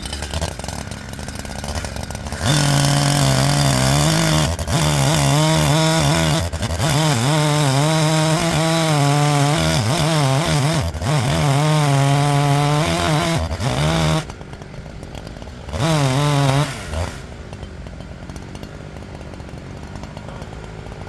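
Two-stroke chainsaw idling, then opened to full throttle about two seconds in and held there for some twelve seconds, its pitch wavering with a few short dips. It drops back to idle, revs briefly once more, and settles to idle.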